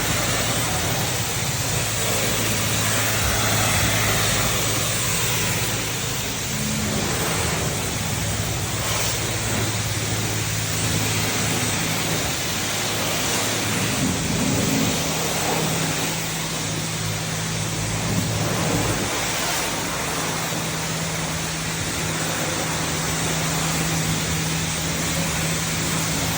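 Car wash water spray hissing steadily against a car, over the steady hum of a pump motor whose pitch steps up about halfway through.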